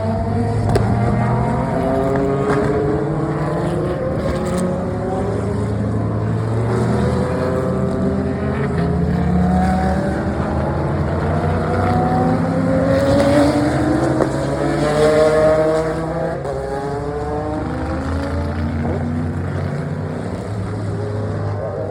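A string of endurance race cars running past one after another on a pace lap. Several engine notes overlap, each rising and falling in pitch as the cars come by and change gear. The loudest passes come a little past the middle.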